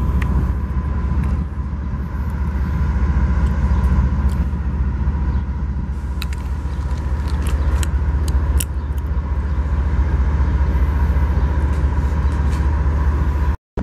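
Train rumbling steadily, with a thin steady tone above it and a few sharp clicks around the middle.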